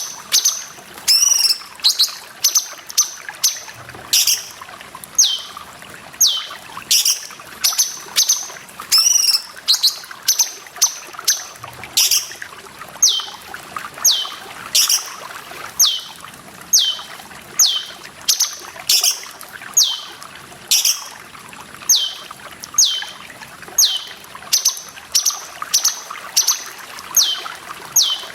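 Cucak cungkok songbird calling over and over, a short note that falls in pitch, about once a second, with water trickling and pouring underneath.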